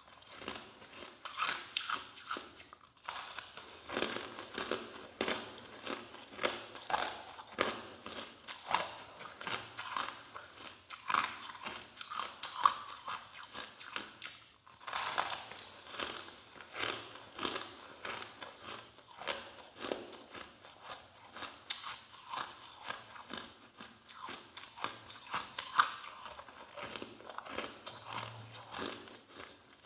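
Crushed ice being chewed close to the microphone: a continuous run of soft, crackly crunches with brief pauses between mouthfuls.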